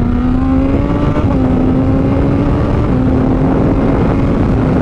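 Honda CBR600RR inline-four engine running under way through an aftermarket Toce exhaust, with heavy wind rush. The engine note climbs for about a second, drops a little just after a second in, then holds nearly steady.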